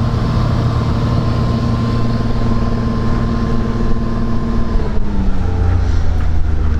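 Canal boat's engine running steadily, then falling in pitch about five seconds in as the engine slows.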